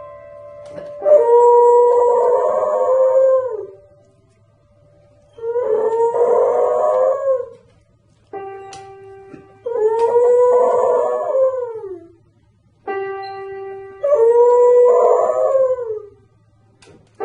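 A dog howling along to music: four long howls of about two seconds each, wavering in pitch and sliding down at the end. Between them, single notes are played on a musical instrument.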